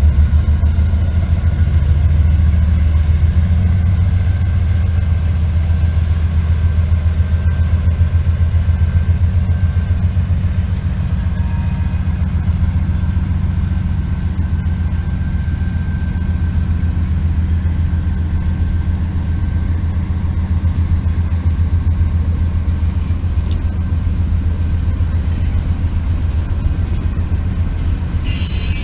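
CSX freight train going by, its diesel locomotive engine giving a loud, steady low rumble with a fine rapid pulse. A brief hiss comes near the end.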